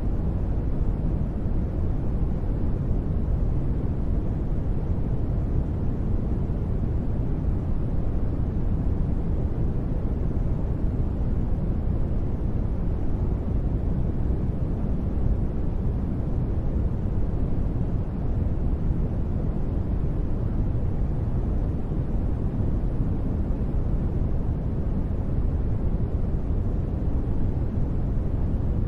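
Continuous sleep noise, steady and unchanging, heaviest in the low end so it sounds as a deep rumbling hiss rather than a bright one.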